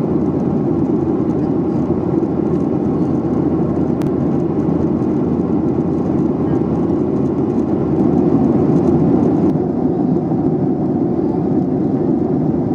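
Airliner passenger-cabin noise in flight: a steady rushing hum, strongest in the low-middle range. A faint click comes about four seconds in.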